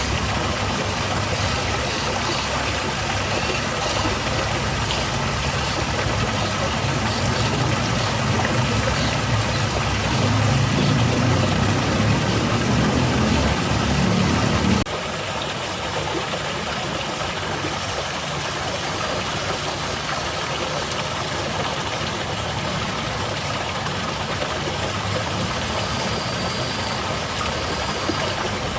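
Garden cascade: water falling and splashing steadily in a constant, even rush. A low rumble underneath ends abruptly about halfway through.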